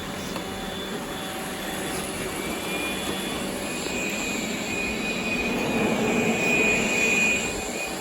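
Roomba robot vacuum running, a steady motor whine with a thin high tone, as it sucks up confetti; it grows louder for a couple of seconds near the end.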